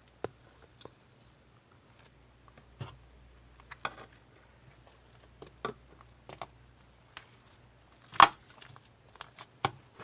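Sporadic small clicks, taps and rustles of small objects being handled, with one louder knock a little after eight seconds in.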